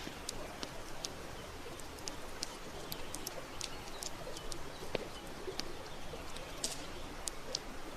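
Campfire crackling, with frequent sharp irregular pops and snaps over a steady hiss.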